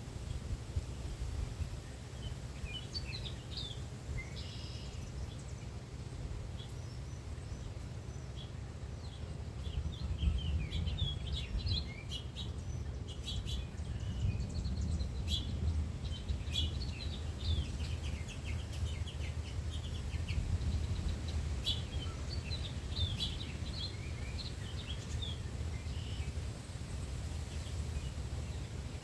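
Several small birds chirping and twittering in short bouts, over a steady low rumble.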